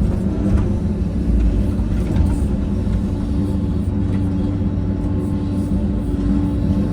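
Heavy diesel earthmoving machine engine running steadily under load, with a deep rumble.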